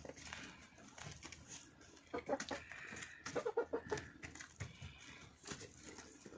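Chickens clucking, with two short clusters of calls about two and three and a half seconds in.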